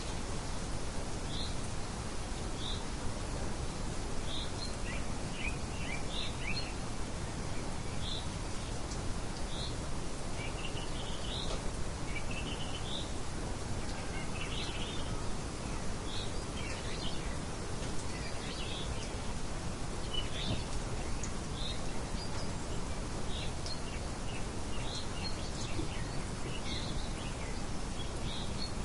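Birds chirping: short high chirps repeating about once a second, with occasional quick twittering runs, over a steady hiss of background noise.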